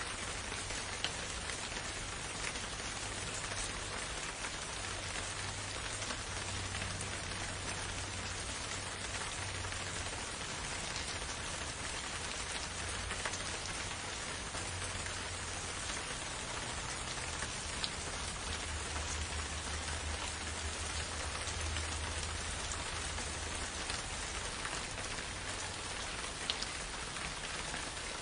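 Steady rain falling on forest foliage, an even hiss with scattered sharper drop ticks and a faint low rumble underneath.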